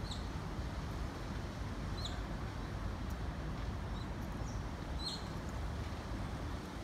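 Short high bird chirps, about five in all, the strongest about five seconds in, over a steady low outdoor rumble.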